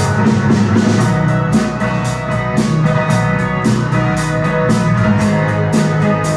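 A live rock band playing an instrumental passage, with a steady drum-kit beat under sustained guitar and keyboard-like chords; no singing.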